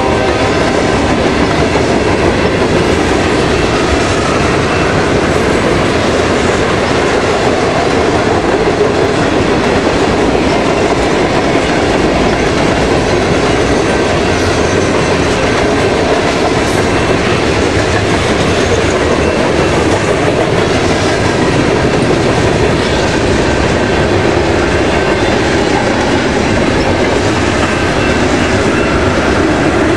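Freight train cars rolling past at speed: a steady, loud rumble with wheels clattering over the rail joints.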